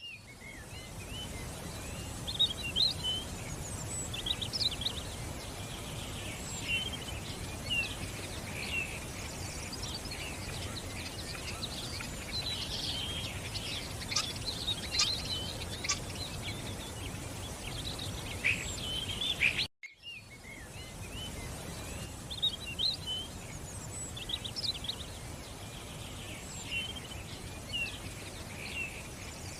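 Songbirds chirping and singing in quick, overlapping calls over a steady background hiss of outdoor ambience. About two-thirds of the way through, the sound drops out for a moment and then starts again.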